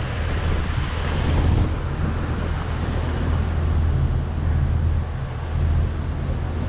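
Wind rushing over an action camera's microphone while riding, with a steady low rumble underneath.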